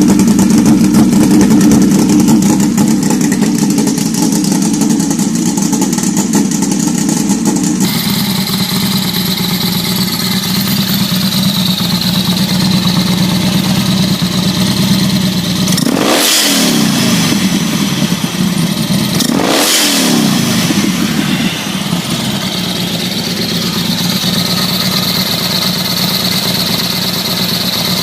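Turbocharged custom motorcycle engines running loud. The sound changes abruptly about eight seconds in, and twice later the engine note drops sharply and climbs straight back up.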